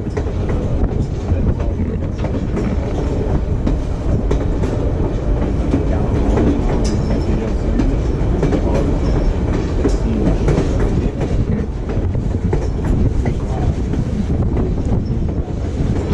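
Train running along the track: a steady loud rumble with the clatter of wheels on the rails.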